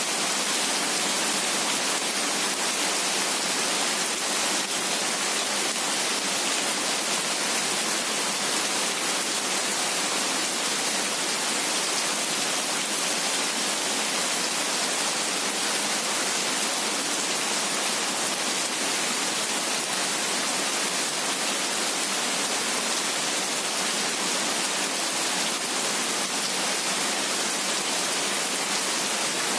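Heavy rain falling steadily as an even, unbroken hiss, strongest in the high range with little low rumble and no thunder.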